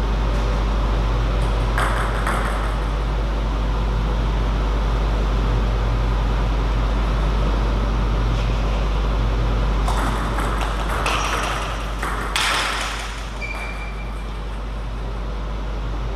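Table tennis hall ambience with a steady low hum and hiss. A few short scuffs and knocks come about two seconds in and again between about ten and thirteen seconds. A brief high ping-like tone sounds near thirteen seconds.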